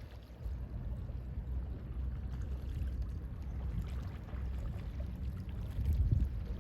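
Gentle sea waves washing, with sea wind rumbling on the microphone. The low rumble swells a little near the end.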